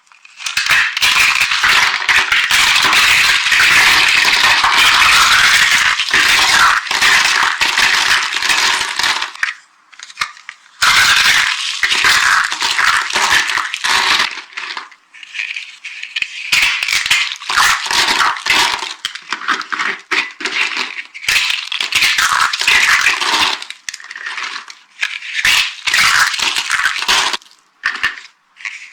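Dry soap shapes being crushed: dense crunching and crackling, unbroken for about nine seconds, then in shorter bursts with brief pauses.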